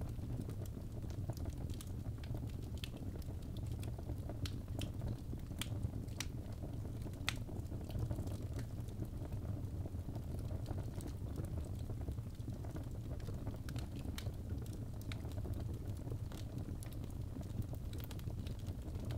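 Birch logs burning in a fireplace: a steady low rush of flame with sharp crackles and pops scattered irregularly, a few each second.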